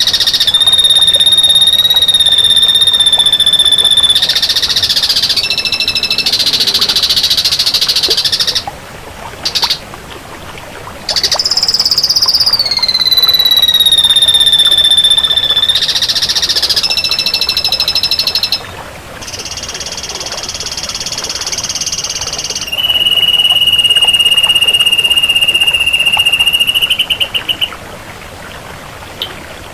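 Ashy drongo singing: long, drawn-out whistled notes held at one pitch, one sliding downward, alternating with harsh buzzy rattles, with a short pause partway through.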